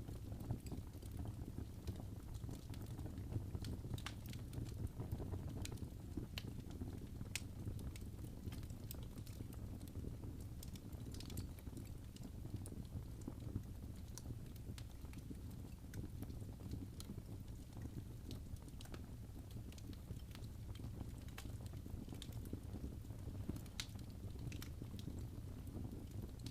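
Fire burning in a fireplace: a low steady rumble with scattered sharp crackles and pops.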